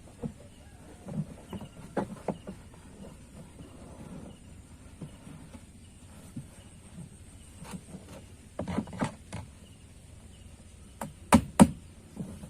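Irregular knocks and clatter from working on plastic drum pieces, ending in two sharp, loud knocks in quick succession about a second before the end.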